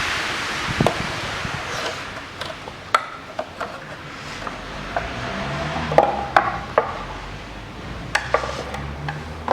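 Scattered sharp clicks and knocks, about a dozen, of hard plastic and metal engine parts and tools being handled as a crankcase ventilation valve and its gasket are worked off a valve cover. The loudest knock comes about six seconds in. A hiss fades out over the first second or so.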